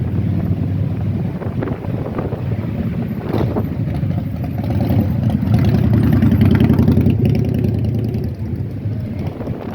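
Motorcycle engine running, growing louder to a peak about two-thirds of the way through and then easing off.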